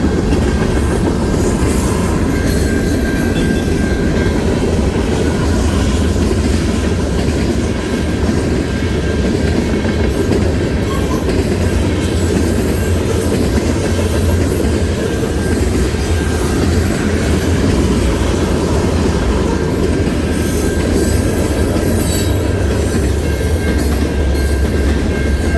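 Steady low rumble of wind on the microphone and road noise from a bicycle being ridden, with faint thin whines over it.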